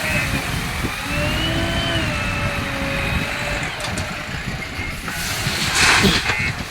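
Heavy diesel machinery running with a steady low rumble and wavering tones over it. A loud, short hiss comes about five to six seconds in.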